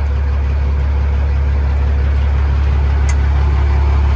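Heavy truck's freshly overhauled diesel engine idling with a steady low drone, and a single short click about three seconds in.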